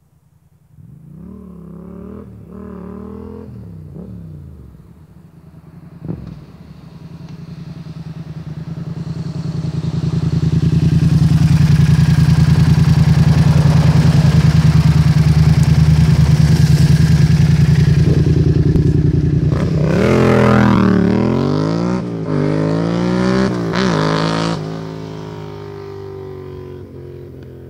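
Yamaha MT-07's parallel-twin engine through a MIVV GP carbon exhaust: a couple of quick rev blips, then it runs loud and steady for several seconds. This is followed by a burst of sharp throttle blips before it drops back to a lower, steady idle near the end.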